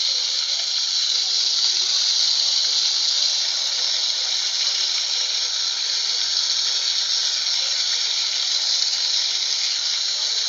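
Water fountain splashing, a steady, even hiss of falling water.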